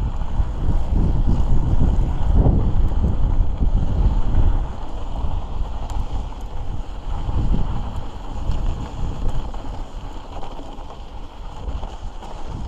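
Wind buffeting the microphone in a fast descent down a snow slope, a steady low rumble that eases somewhat about four and a half seconds in.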